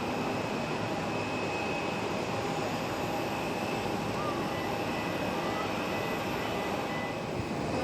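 Aircraft engines running steadily, a constant hiss with a faint high whine held at an even pitch.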